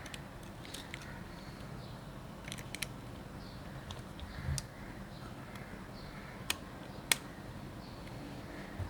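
Scattered small, sharp clicks and taps of hand tools and parts on a Nikon D90 camera body being taken apart, the two loudest a little after six and seven seconds in, over a steady low hum.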